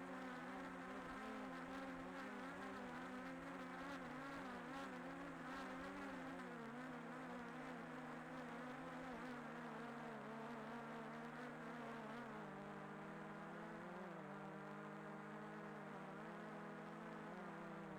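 Faint, steady hum of a small quadcopter drone's propellers, several pitched tones wavering slightly up and down with a small shift about two-thirds of the way through.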